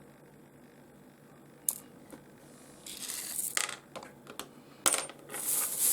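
Small pieces of rough opal being moved around by hand: a single click, then from about halfway on irregular scraping and clicking of stones against each other and the surface.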